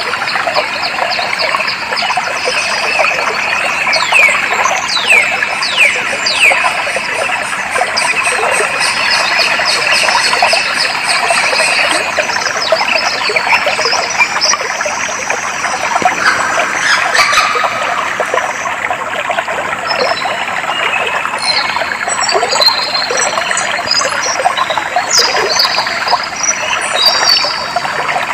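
Clear stream water running and trickling steadily, with wild birds singing over it: a series of quick downward-sliding whistles in the first half, and bursts of short high chirps in the last third.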